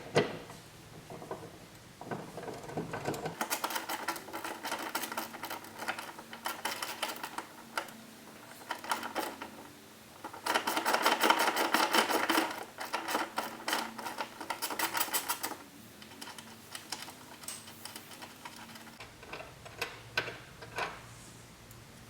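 Hand ratchet with a 13 mm socket clicking in quick runs of strokes as it turns the bolt at a ground connection point, the runs stopping and starting several times, loudest in the middle, then a few scattered clicks.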